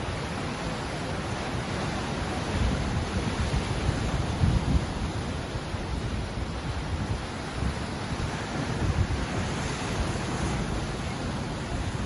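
Ocean waves washing on the shore as a steady rushing noise, with a deeper low rumble that swells up a couple of times.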